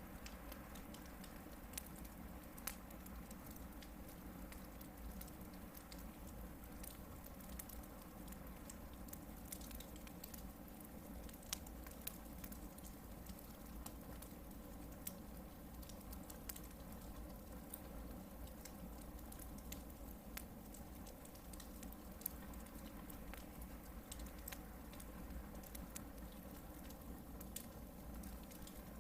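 Hardwood campfire burning, with small sharp crackles and pops at irregular moments over a faint steady low rumble.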